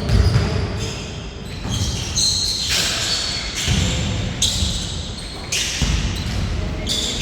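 Basketball game play on an indoor court: the ball bouncing amid players' movement, with short high squeaks here and there, in a large hall.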